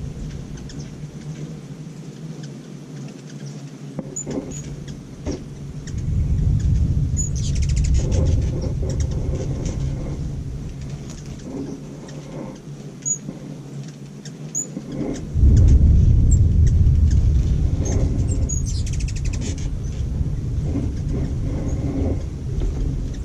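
Hummingbirds chirping with short, high squeaks. Low rumbles of distant thunder come in twice, each lasting several seconds, as a storm approaches.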